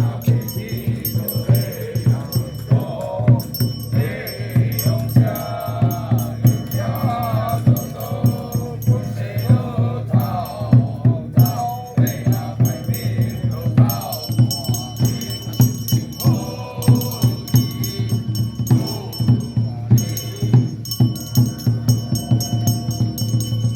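Xiaofa ritual masters chanting together in a Taoist ritual, over a fast, steady percussion beat and continuous rattling, jingling metal.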